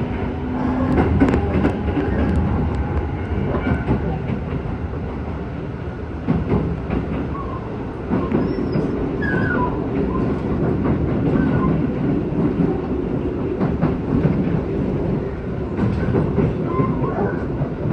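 Keisei 3000 series electric train running, heard from inside the carriage: a steady rumble with the wheels clicking over rail joints, and a few faint brief squeals about halfway through.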